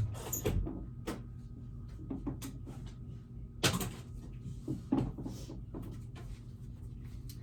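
Knocks and clatter of household things being handled and put away, such as a cupboard or drawer closing and objects set down. The sharpest knocks come at the very start, about halfway through, and a second later, with lighter clicks between them.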